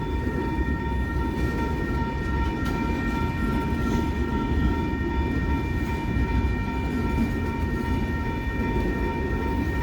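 Train rolling past with a steady low rumble and a constant high-pitched whine.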